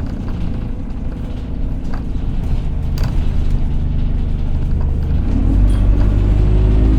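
Single-deck bus's engine running, heard from on board, with a steady hoover-like whine over the rumble. About five and a half seconds in it gets louder and rises in pitch as the bus picks up speed, with a couple of sharp rattling clicks along the way.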